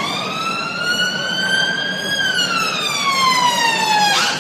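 Siren sounding one slow wail, rising in pitch for about two seconds, then falling for about two and cutting off suddenly. A low steady engine hum runs underneath.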